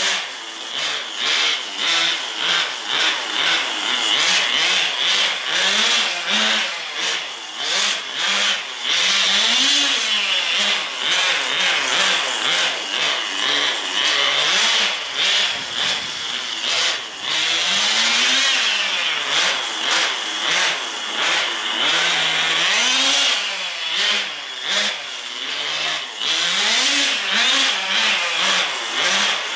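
Small two-stroke glow (nitro) engine of a Tamiya TGS 1/10-scale RC car running with a high buzzing note, its revs rising and falling again and again as the throttle is worked, with longer steady stretches at high revs.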